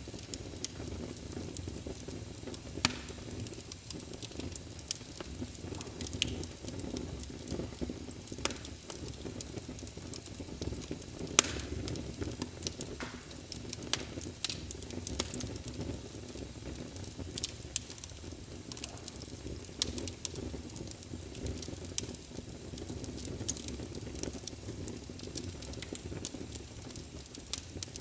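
Wood fire burning in a fireplace: a steady low rumble of flames with frequent irregular crackles and pops, a couple of them sharper than the rest.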